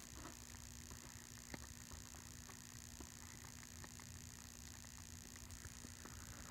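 Near silence: a faint steady hum with background hiss, and a couple of faint ticks.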